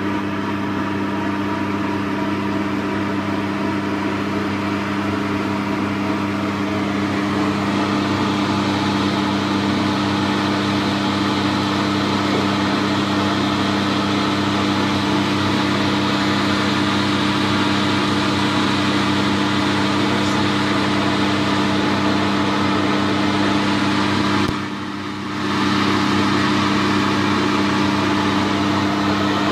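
Steady mechanical hum with a rushing noise that grows louder after about seven seconds and dips briefly near the end.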